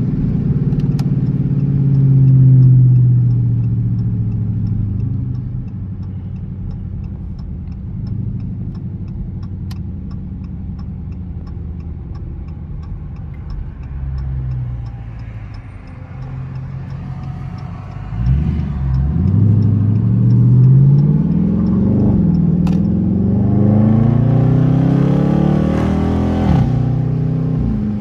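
Dodge Charger R/T's V8 engine cruising, then pulled hard about two-thirds of the way in, its revs climbing through the gears with an upshift partway, then dropping off near the end.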